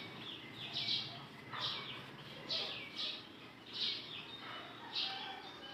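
A bird chirping over and over: short chirps that fall in pitch, about one a second, over faint room noise.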